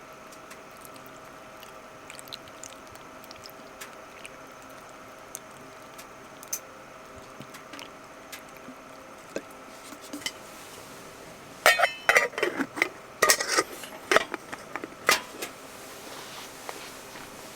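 Metal cookware or utensils clinking and clattering against each other for about three seconds in the second half, with a ringing tone to the knocks. Before that, faint scattered ticks and crackles sound over a low steady hum.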